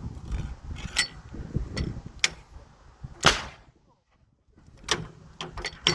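A series of sharp knocks and clacks, the loudest about three seconds in with a short ring after it. The sound then drops out briefly before a quick cluster of smaller clicks near the end.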